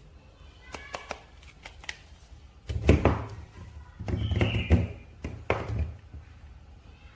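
Hands handling toy packaging and figures on a table: a few light clicks and taps, then three heavier thunks a second or so apart.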